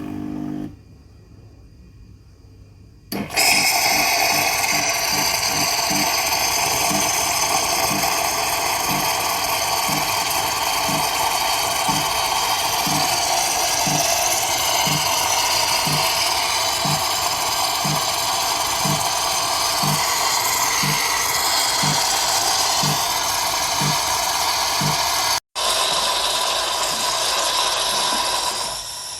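Klarstein 20-bar espresso machine running: a loud steady hiss with a low pulse about once a second, starting about three seconds in.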